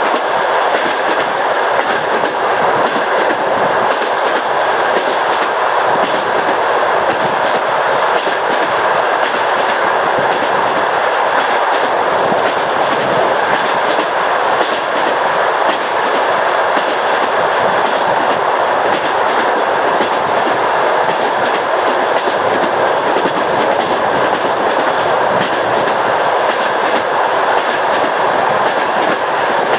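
Russian passenger train carriage rolling at speed: a steady rushing rumble of wheels on track, with the wheels clicking over the rail joints.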